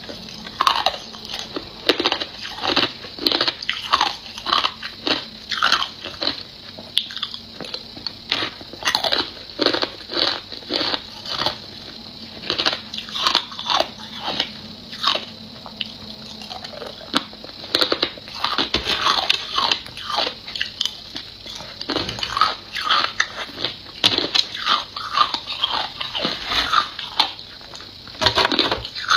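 Close-up crunching of ice being bitten and chewed, with a rapid, irregular run of sharp cracks, several a second, throughout.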